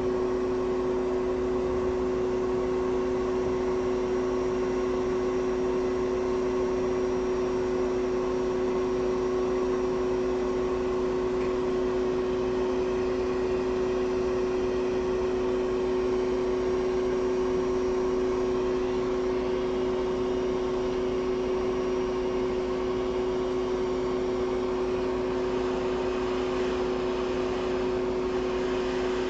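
Steady whirring hum of a small electric fan or blower on a repair bench, with a constant low tone over an even airy hiss.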